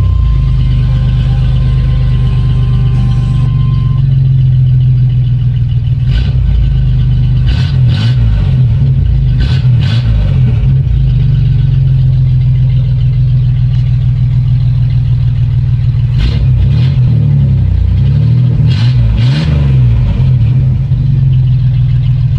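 GM 4.3-litre (262 cu in) Vortec V6 in a pickup truck running loudly through a custom exhaust just after starting. It idles steadily, and its pitch rises and falls in two stretches of a few seconds each.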